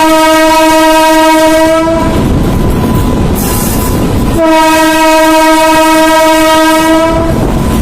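Train horn sounding two long blasts, the first cutting off about two seconds in and the second starting past the middle and held for about three seconds, over the steady rumble of a moving train.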